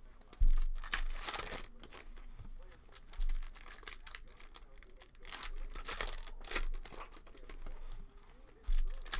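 Cellophane wrapping and foil card packs being torn open and crinkled by hand, with a few sharp knocks; the first, about half a second in, is the loudest.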